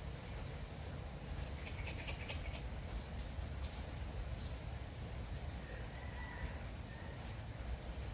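Light steady rain with scattered drips, and a few short bird chirps, a quick cluster about two seconds in and a brief call around six seconds.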